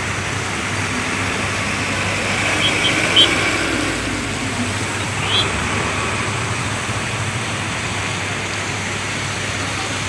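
Steady rush of floodwater in a swollen river, with a few short high chirps about three seconds in and again past five seconds.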